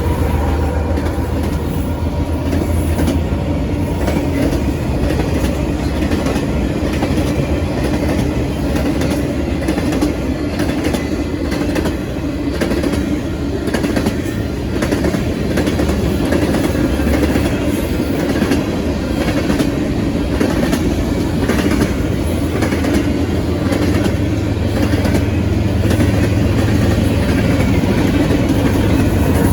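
A Union Pacific manifest freight train's cars rolling steadily past, with a continuous low rumble and wheels clicking over the rail joints.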